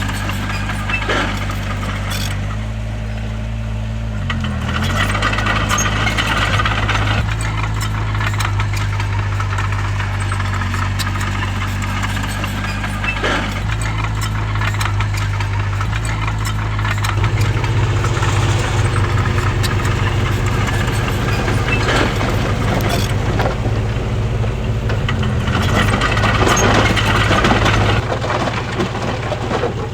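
Bulldozer's diesel engine running steadily under changing load, with scattered metallic knocks and two stretches of grating noise, one a few seconds in and one near the end.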